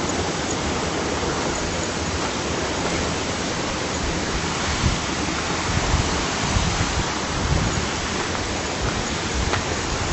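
Steady rush of flowing stream water, with a few short low thumps from about five seconds in.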